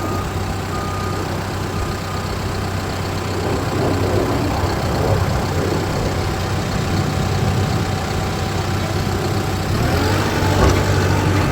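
Caterpillar bulldozer's diesel engine running steadily, getting a little louder about four seconds in.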